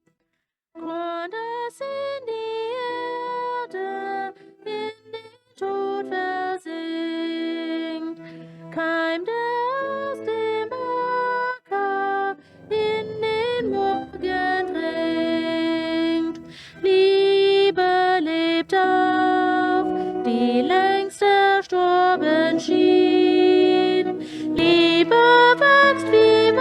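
Music: a woman singing a melody over sustained accompanying notes, starting about a second in.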